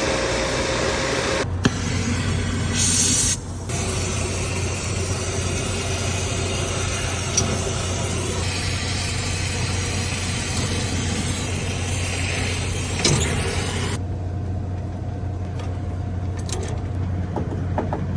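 A brazing torch flame hisses steadily while heating the joints of a refrigerant line to unbraze a thermostatic expansion valve. The flame cuts off suddenly about three-quarters of the way through. Under it, the rooftop unit's blower motor hums steadily.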